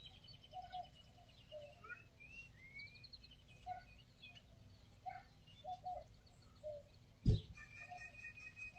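Several birds chirping and calling faintly, with short rising whistles and trills, and a single low thump about seven seconds in.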